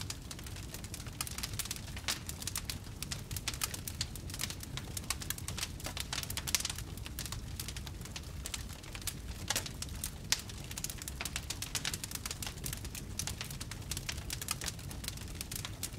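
Wood fire burning in a fireplace: a steady low rumble of the flames with dense, irregular crackles and pops, a few sharper pops standing out.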